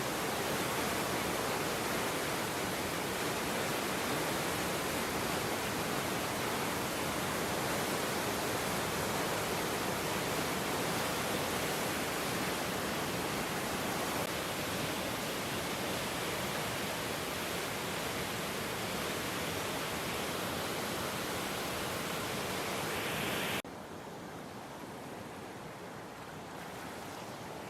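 Steady rushing of a swollen, flooded river. Near the end it drops suddenly to a quieter rush of water.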